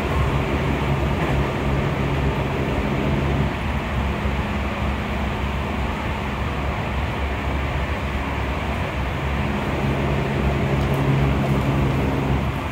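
Running sound inside the motor car of a Seibu 20000-series electric train with Hitachi IGBT-VVVF traction equipment, travelling at speed: a continuous rumble of wheels on rail, with a steady low hum that drops away about three seconds in and comes back about ten seconds in.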